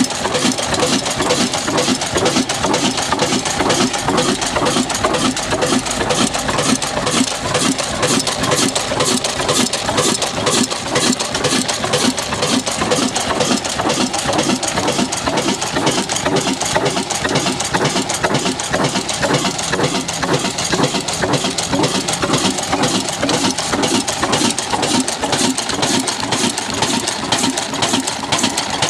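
Old stationary engine driving a chakki flour mill, running steadily with a fast, even beat.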